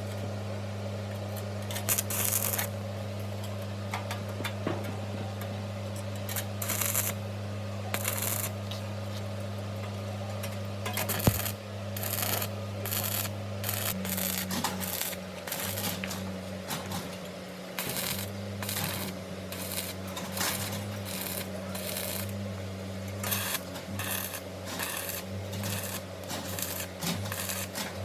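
Repeated short scraping or rubbing strokes, irregular and coming faster after about twelve seconds, over a steady low hum.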